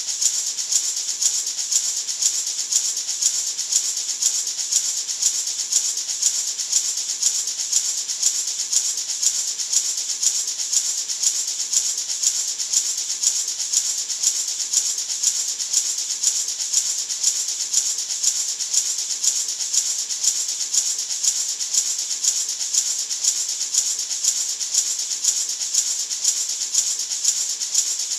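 Gourd maraca shaken continuously in a steady, even rhythm, its seeds giving a hissing rattle on every stroke.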